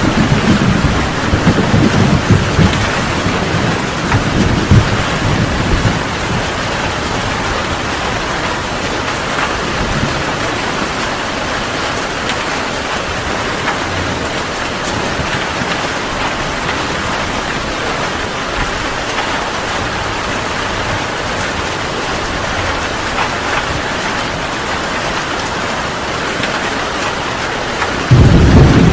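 Heavy rain pouring steadily. A roll of thunder rumbles through the first few seconds and fades out by about five seconds in, and another loud thunder rumble breaks in suddenly near the end.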